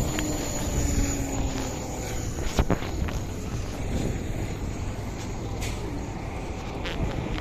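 Street traffic noise: a steady low rumble of vehicles, with a brief faint steady tone in the first couple of seconds and a sharp knock about two and a half seconds in.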